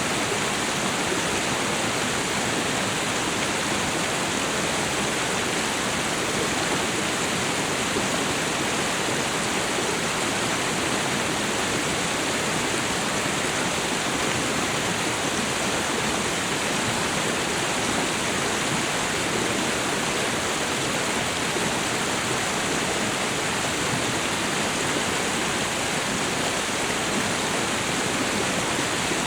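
Waterfall and river water rushing, a steady, even noise with no breaks or changes.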